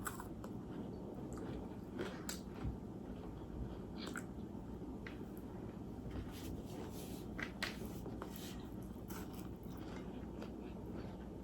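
A person chewing and biting food close to the microphone: faint, irregular mouth clicks over a steady low hum.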